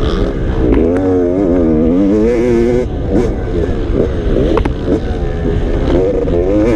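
Motocross dirt bike engine revving as it is ridden, its pitch rising and falling again and again with the throttle.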